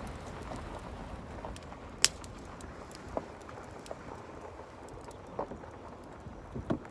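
Wood campfire crackling, with a few sharp pops; the loudest comes about two seconds in.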